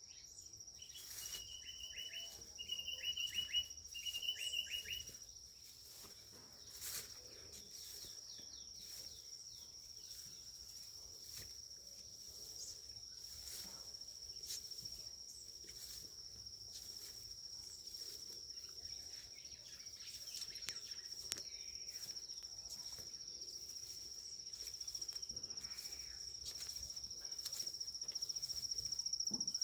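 An insect trilling steadily on one high pitch, with a bird calling a few short repeated phrases between about one and five seconds in. Faint scattered clicks run alongside.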